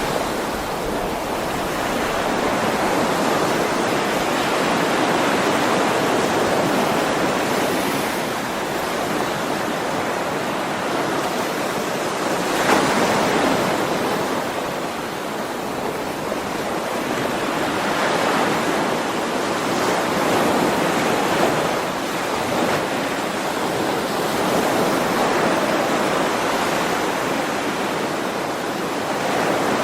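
Ocean waves breaking and washing onto a shore: a continuous rushing that swells and eases every few seconds, with one sharper surge about twelve seconds in.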